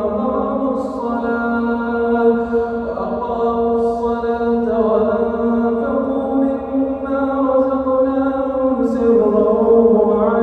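A man's voice reciting the Quran in melodic, chanted tajweed style, drawing out long held notes with a few short hissing consonants between them.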